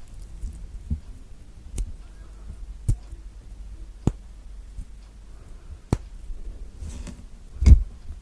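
Thick orange peel being broken off in pieces by hand, close-miked: about six sharp snaps and crackles, a second or so apart, the loudest near the end with a low thud.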